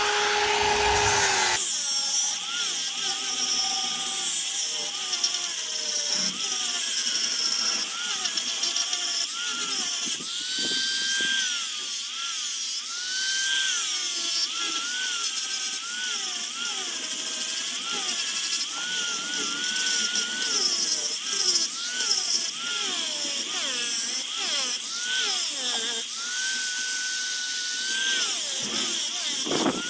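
High-speed rotary power tool carving a wooden bowl. Its high whine repeatedly dips in pitch and recovers as the bit bites into the wood and is lifted off. A steadier, lower motor hum runs for about the first second and a half, then stops.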